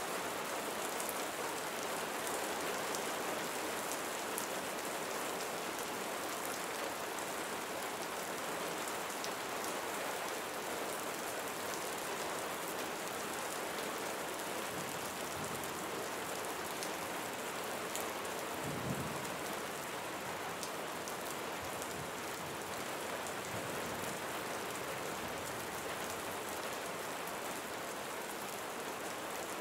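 Steady rain, an even hiss with scattered drop ticks. There is a brief low rumble about two-thirds of the way through.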